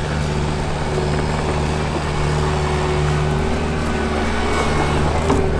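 A vehicle engine running steadily, with no impacts.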